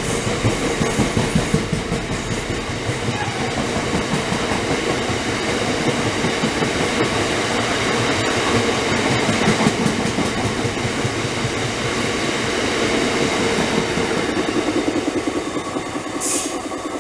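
Train running past on the main line, its wheels clattering steadily over the rails with a continuous rumble and a steady hum. The sound eases slightly near the end, where there is a brief high hiss.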